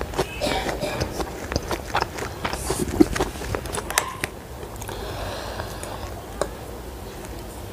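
Close-miked chewing of instant noodles, wet and full of sharp crackly clicks. About halfway through it gives way to a fork scraping and stirring through noodles on a ceramic plate.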